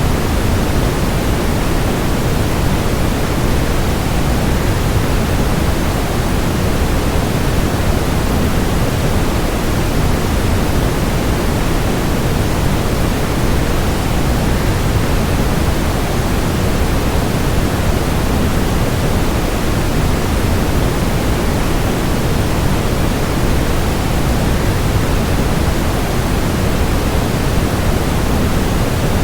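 Steady rushing waterfall noise blended with white noise, even and unchanging, with more weight in the low end than the high.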